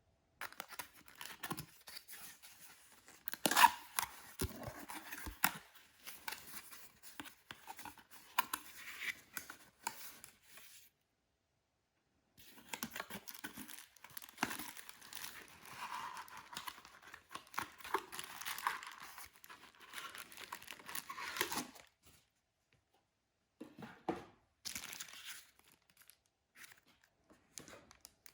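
Packaging rustling, crinkling and tearing, with sharp crackles, the loudest about three and a half seconds in. It stops dead twice, around 11 s and 22 s.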